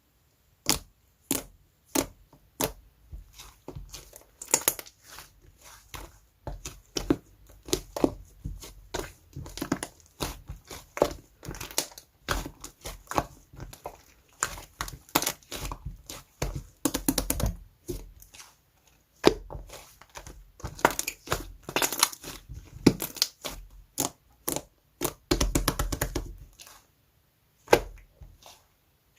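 Slime being squished, pressed and stretched by hand, giving an irregular run of sticky pops, clicks and crackles, busier in a couple of stretches and pausing briefly twice.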